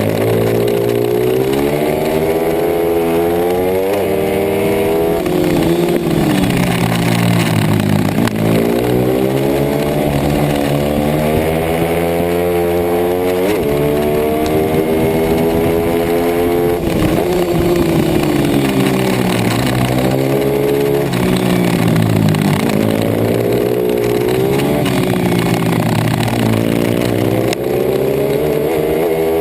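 Pit bike engine racing hard, its pitch climbing as it revs and falling back sharply every few seconds as the rider shifts or backs off.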